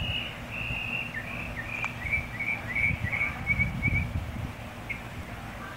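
A bird singing a string of short chirps, which quicken in the middle and stop about four seconds in. Under them, gusts of wind buffet the microphone with a low rumble, loudest in the middle.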